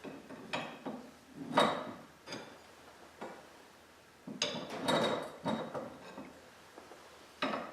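Garage door torsion spring being wound with steel winding bars: a series of metallic clanks and clicks, each with a brief ring, the loudest about a second and a half in and a cluster around five seconds.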